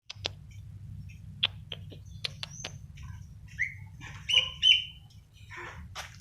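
A pet bird giving short, sharp chirps and calls at irregular intervals, the loudest two a little past halfway, over a steady low hum.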